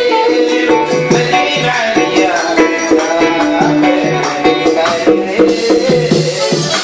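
Sudanese band playing an instrumental passage of a song: a melody line over steady percussion, without singing.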